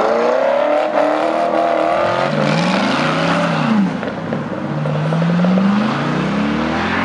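Two V8 cars accelerating hard away one after the other: a Vauxhall VXR8 saloon revs up rising in pitch, then a Vauxhall Monaro coupé blips its revs up and down a couple of times and accelerates away with a long rising engine note.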